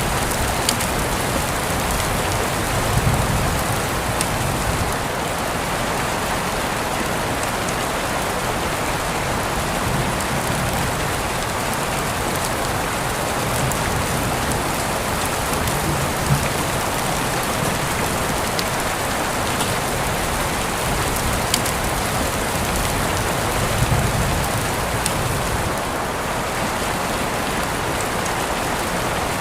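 Steady rain falling on a surface, a constant hiss with scattered sharp drips of individual drops and a few brief low rumbles.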